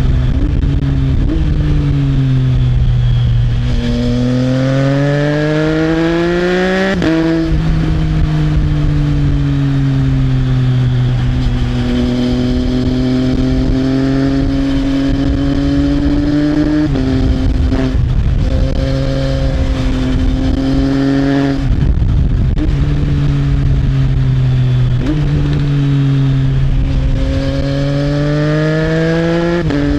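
Triumph Trident 660's three-cylinder engine through an Arrow exhaust, heard from the rider's seat: the engine note climbs under throttle and drops abruptly at each gear change, a few times, with stretches of easing off and cruising between, over a steady rush of wind.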